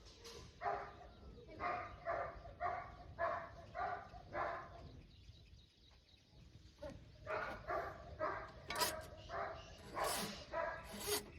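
A dog barking over and over, about two short barks a second, with a break of about two seconds in the middle.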